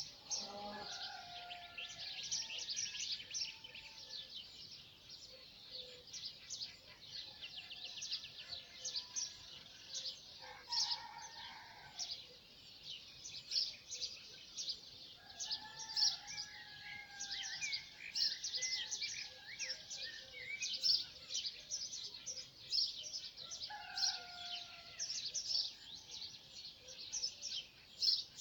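A dawn chorus of many small songbirds chirping and trilling continuously, with a rooster crowing several times over it; the longest crow comes about halfway through.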